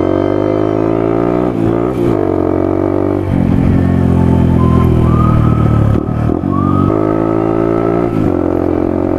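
Single-cylinder dirt bike engine under way on a trail, its pitch climbing and dropping again and again as the throttle opens and closes, with several sharp dips that sound like gear shifts or throttle chops.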